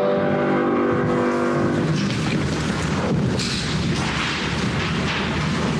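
A hymn's final sung chord ends about two seconds in. It gives way to a steady low rumbling noise with scattered faint clicks.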